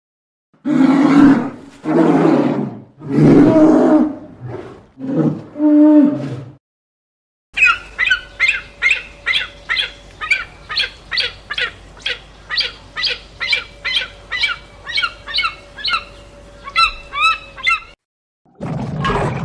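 Polar bear growling in about five loud, rough bursts. After a pause, a bird gives a sharp call over and over, about two a second, each note sweeping down in pitch, quickening into a short flurry near the end.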